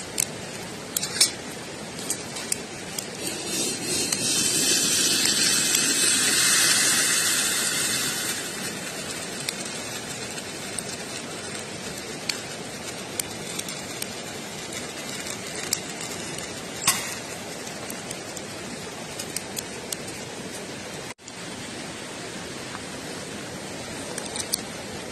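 Campfire crackling with scattered sharp pops. A broad hiss swells up and fades away over several seconds in the first third.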